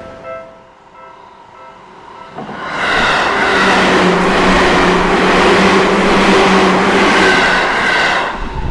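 The last strokes of a level-crossing bell fade out, then a Seibu Kokubunji Line electric train passes the crossing close by: a loud rush of wheel and rail noise with a steady motor hum. It builds about two and a half seconds in, holds for about six seconds, and drops away near the end.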